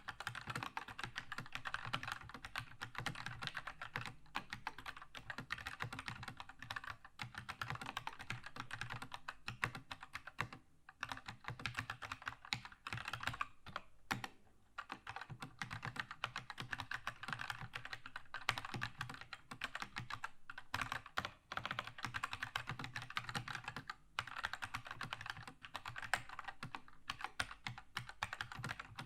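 Continuous fast typing on a Keychron K2 mechanical keyboard with linear red switches: a dense stream of keystroke clacks with a few short pauses.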